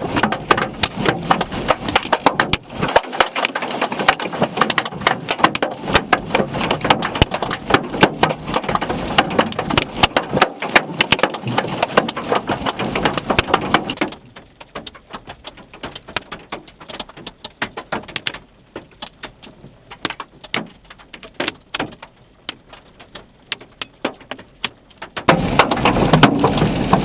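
Dense hail, penny-sized to just shy of quarters, drumming on a vehicle in a rapid, irregular clatter of hits. About halfway through it drops abruptly to a sparser patter of scattered hits, then the heavy clatter comes back abruptly near the end.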